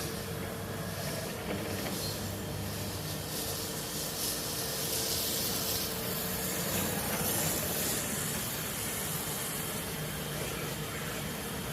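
Kärcher battery-powered pressure washer running, its water spray hissing steadily.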